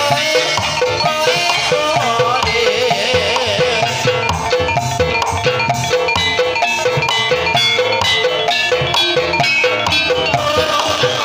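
Gamelan-style accompaniment for a kuda kepang (ebeg) horse dance: drums and struck keyed percussion playing a dense, steady rhythm of ringing pitched notes.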